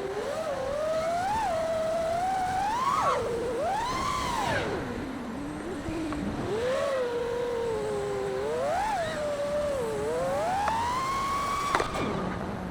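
A 5-inch FPV freestyle quadcopter's T-Motor Pacer 2306 1750kv brushless motors whining, the pitch sweeping up and down constantly as the throttle changes. Near the end there is a sharp click, and then the pitch falls low.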